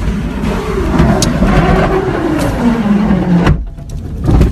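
Car interior noise with a loud, steady low rumble while driving through a wildfire. Over the middle there is a long tone that slowly falls in pitch. The rumble dips sharply near the end, then returns.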